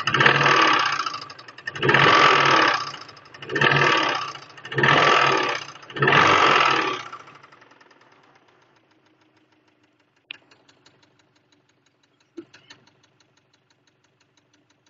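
Subaru EJ20 flat-four engine, warm, revved in about five short throttle blips that show a knock the owner traces to cylinder 4. After about seven seconds the sound dies away to a faint level, broken by two sharp clicks.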